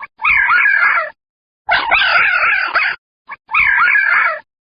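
An animal calling three times, each call about a second long with a wavering, quavering pitch, separated by short silences.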